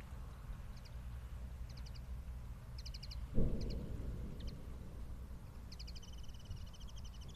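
A distant ammunition-depot explosion: one sudden low boom about three and a half seconds in, dying away over about a second, under a steady low rumble. Birds chirp short rapid trills, more of them near the end.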